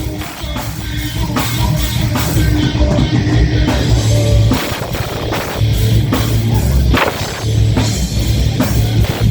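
Heavy metal band playing live: distorted electric guitars and bass over a pounding drum kit.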